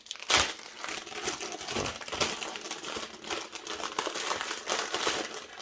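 Packaging crinkling and rustling in irregular bursts as small cooler accessories are rummaged out of their box, with a sharp loud crackle just after the start.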